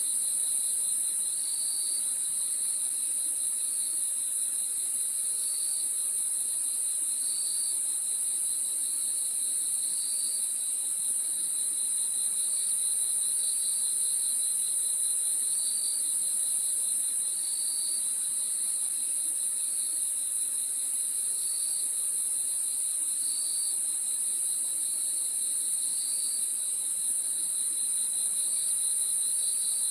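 A chorus of crickets at night: a steady, unbroken high trill, with a lower chirping pulse repeating every second or two.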